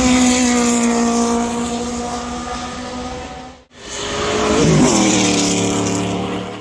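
Racing car engines at high revs in two clips joined by an abrupt cut. The first is a steady engine note that slowly falls in pitch. The second has a quick blip of revs about five seconds in, then a steady note.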